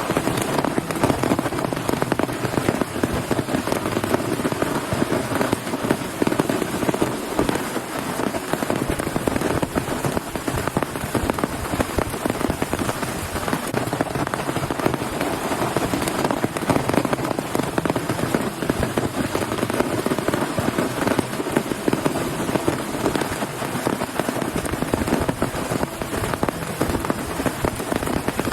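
Heavy rain falling steadily, a dense, unbroken hiss of countless drop hits.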